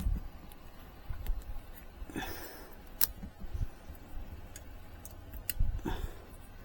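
Faint handling noise of thermostat wires being worked by hand: a few scattered sharp clicks and taps, with a brief rustle about two seconds in.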